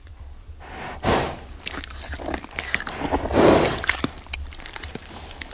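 A horse blowing out hard through its nostrils twice, about a second in and again near the middle, with small clicking and crunching sounds in between.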